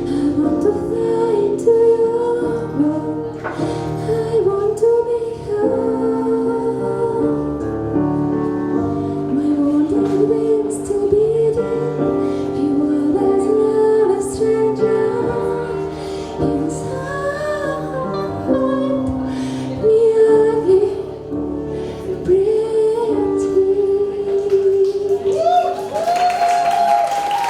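A female voice singing long, wavering held notes over a sustained instrumental accompaniment of held chords.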